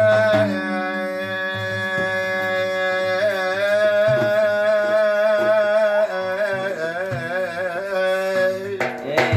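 A man's voice holding one long sung note of a madih praise song, breaking into wavering ornamented turns about three seconds in and again in the second half, over a drum beating underneath.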